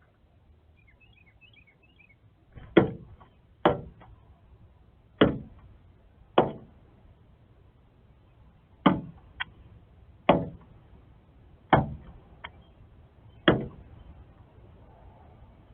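A northern cardinal striking a window pane again and again with its beak and body: about eight sharp knocks on the glass at uneven intervals of a second or so, with a few lighter taps between them. This is territorial attack on his own reflection.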